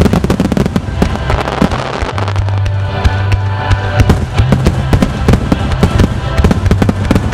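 Starmine fireworks display: a rapid barrage of shells bursting in quick succession, many sharp bangs a second, with music playing underneath.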